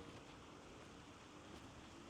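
Faint, steady hiss of flowing river water, with a few faint short tones and ticks over it.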